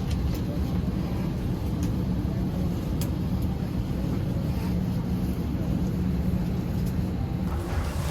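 Steady low rumble of airliner cabin noise inside an Airbus A321 at the gate, with a few faint clicks.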